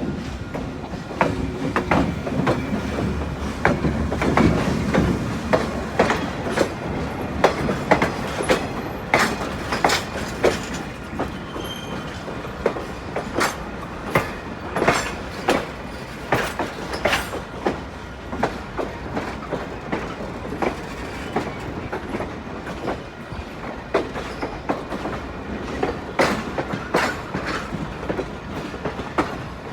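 Railroad train rolling slowly past, its wheels clacking over the rail joints in a long, uneven series of sharp clicks. A low rumble is strongest in the first few seconds.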